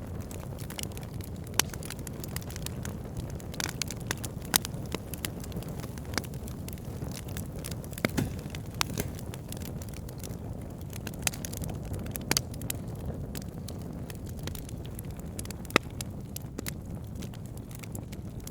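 Burning wood fire: a steady low rumble of flames with irregular crackles and sharp pops from the logs, a few louder snaps standing out.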